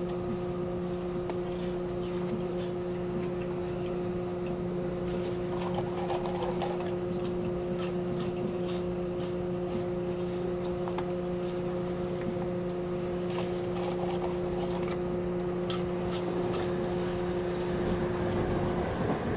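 Cabin noise of a JR East E657-series limited express running at speed: a steady hum with a few held tones and faint light clicks from the track. Near the end the held tones stop and the rush of a train passing on the next track begins.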